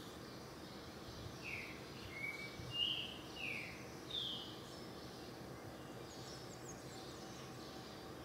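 Five short chirping calls from a bird, each dipping slightly in pitch and spaced under a second apart, over a faint steady outdoor hiss at night.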